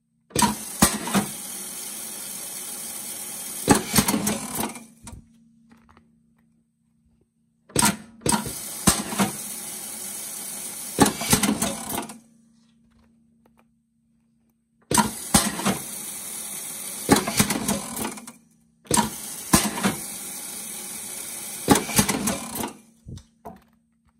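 Riveting machine that sets rivets with washers, working through four cycles. Each cycle is a few seconds of steady mechanical noise, opened and closed by sharp knocks, over a low steady machine hum.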